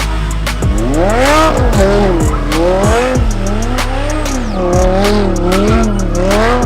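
A car engine revving up and down over and over, with tire squeal, as a car does donuts, under music with a heavy bass beat.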